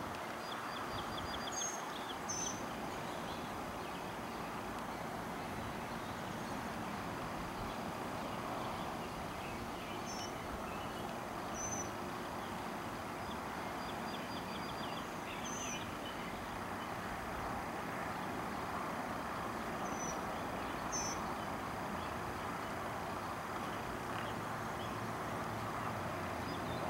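Steady outdoor background noise with short, high bird chirps every few seconds.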